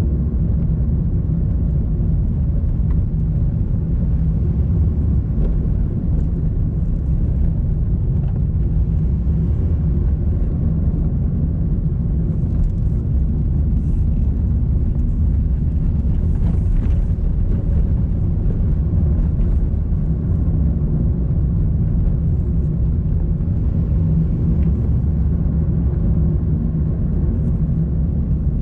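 A vehicle driving along a road: a steady low rumble of engine and road noise that holds at an even level, with a few faint light ticks.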